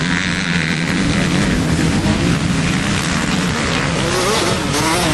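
Motocross bikes racing, engines running at high revs with pitch rising and falling as they accelerate and shift, a bike's engine climbing in pitch near the end.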